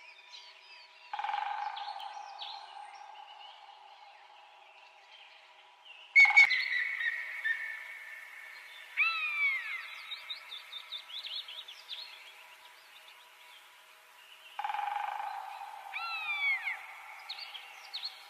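Bird-like chirping: quick falling call notes over a steady ringing chorus. It comes in suddenly four times, and each time fades off slowly.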